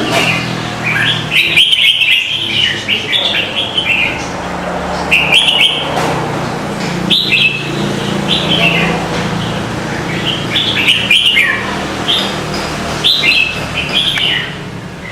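Birds chirping in many short, high calls, some falling in pitch, repeated all through, over a low steady hum.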